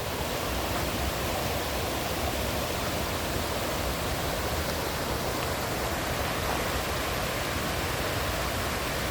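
Rushing water from a waterfall and river current, a steady even roar.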